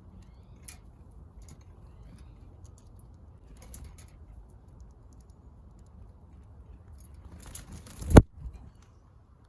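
Small backyard birds at a feeder: faint scattered pecking ticks, then about eight seconds in a brief flutter of wings ending in a loud thump, with a smaller knock just after.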